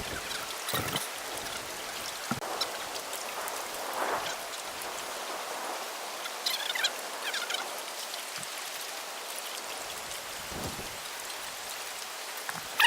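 Steady hiss of light rain falling outdoors, with a few short bird chirps about halfway through.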